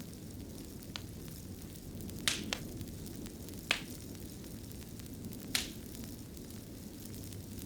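Fireplace wood fire burning with a steady low rumble and sharp crackling pops every second or two.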